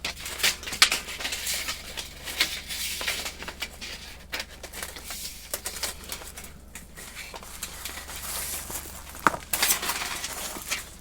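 Thin titanium fire-pit plates being handled and slotted together: a run of irregular light metallic clicks and taps with rustling between them.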